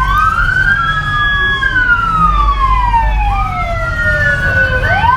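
Police car sirens wailing, at least two at once, each rising and falling slowly out of step with the others, over a low rumble.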